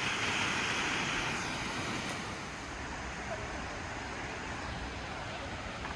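Steady rushing roar of a 55 m plunge waterfall, easing slightly in level about two seconds in.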